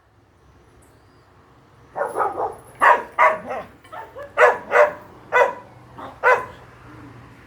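A dog barking: a run of about a dozen short barks in quick, uneven succession, starting about two seconds in.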